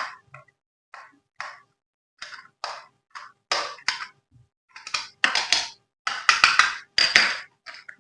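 Handling noise: short bursts of rustling and scraping, coming more often and lasting longer after the first few seconds, with dead silence between them.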